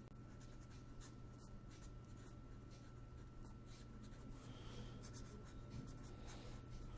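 Faint scratching strokes of a pen writing, over a steady faint electrical hum with a thin high tone.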